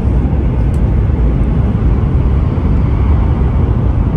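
Shinkansen bullet train running at speed, heard from inside the train: a loud, steady, deep rumble.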